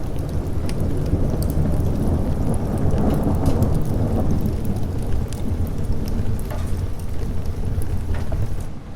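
Thunder rumbling over steady rain, swelling to a peak about three to four seconds in and then easing, with scattered sharp crackles throughout. The whole soundscape drops away briefly at the very end.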